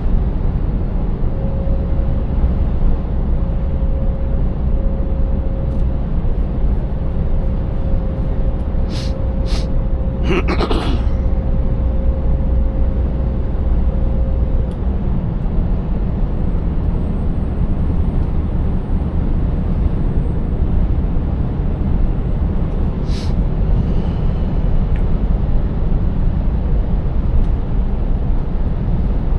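Scania 590S truck's V8 diesel running steadily at road speed, a low rumble mixed with road noise. A few short clicks or knocks come about nine to eleven seconds in and again a little past twenty seconds.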